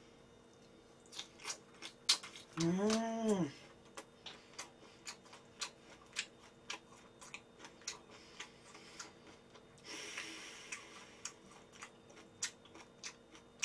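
Close-miked chewing of grilled bulgogi: soft wet mouth clicks and smacks, a couple of times a second. About three seconds in, a short hummed 'mmm' rises and falls in pitch.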